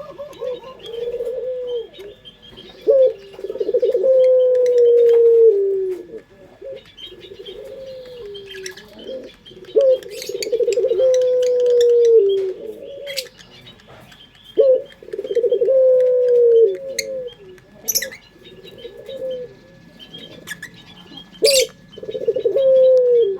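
Barbary (puter) dove cooing over and over: about four long phrases, one every five to six seconds, each a short opening note followed by a drawn-out coo that falls in pitch, with a few short sharp clicks between them.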